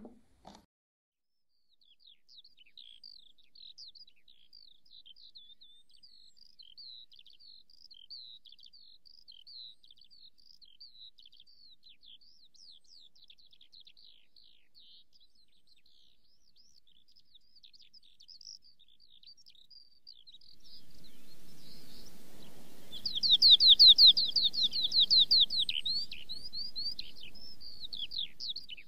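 Small songbirds chirping and twittering in a continuous, fairly faint stream. About two-thirds of the way through, an outdoor background hiss comes up, and a bird sings a loud, rapid run of repeated chirps for about two seconds before softer twittering resumes.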